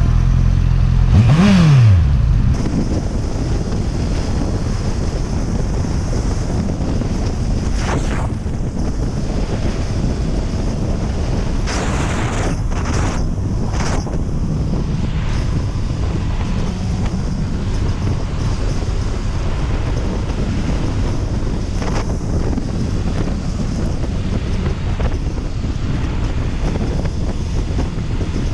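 Honda CB650R inline-four engine revving up and back down briefly about a second in, as the motorcycle pulls away. After that, wind rushing over the microphone drowns the engine for the rest of the ride.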